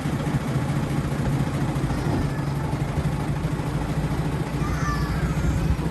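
Diesel engine of a small Planet diesel locomotive running steadily, heard from inside its cab.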